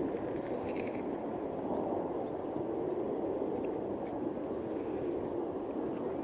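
Steady, distant aircraft engine noise: an even rumble with no distinct events.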